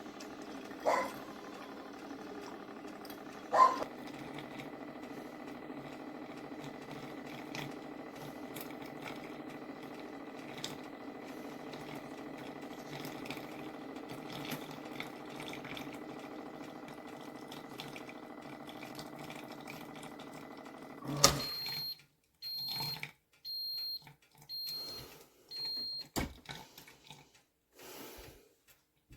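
Coffee maker running with a steady hum that stops with a click, followed by a series of about five short high-pitched beeps and a few light knocks. A dog barks twice near the start.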